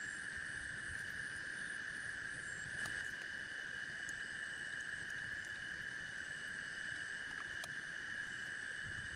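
Steady chorus of insects in the forest, a continuous high, even buzz that does not let up, with a few faint ticks over it.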